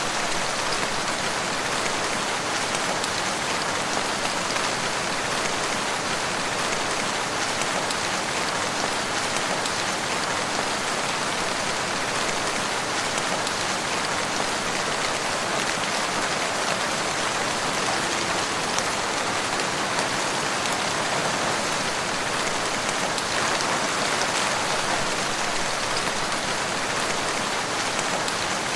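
Steady rain pattering, an even hiss with a few faint clicks.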